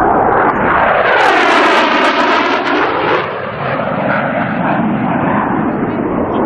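AV-8B Harrier II jet, its Rolls-Royce Pegasus turbofan, flying past. The roar swells with a sweeping, phasing whoosh that rises and falls, loudest about one to three seconds in, then carries on as a steady roar.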